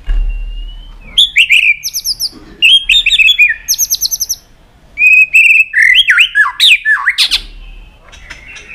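White-rumped shama singing loudly in bursts: whistled slurs and rapid runs of sharp high notes, from about a second in until near the end, then fading to quieter chirps.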